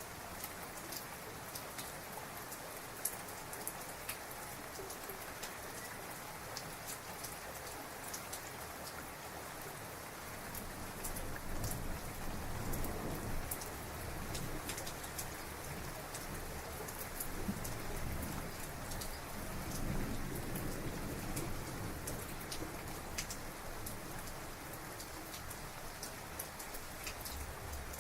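Heavy rain falling steadily, with many fine drop ticks. Low rolling thunder rumbles swell in about ten seconds in and again later.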